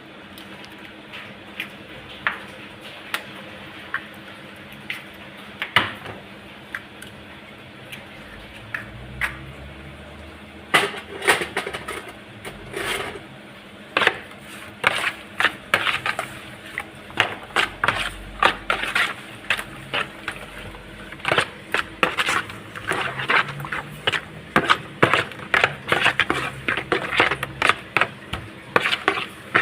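Sharp knocks and clicks of kitchen utensils being worked: scattered at first, then coming quickly, several a second, from about ten seconds in.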